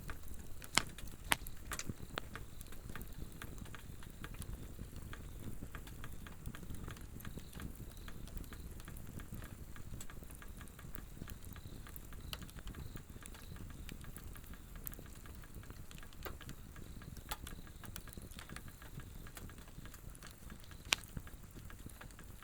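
Swedish torch, a split log burning upright, crackling and popping over a steady low rush of flame, with one louder pop near the end. Faint insect chirring in the background.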